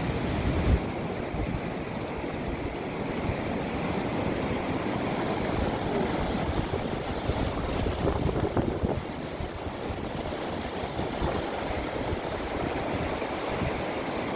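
Steady rushing of water outdoors. A low wind rumble on the microphone cuts off abruptly about a second in.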